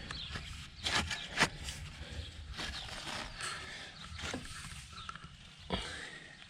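Scattered knocks and clatter, about half a dozen over a few seconds, with a few faint high chirps.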